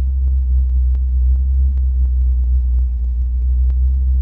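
Old truck's engine idling steadily on its Blue Phoenix electronic ignition, a low even rumble with sharp ticks every half second or so.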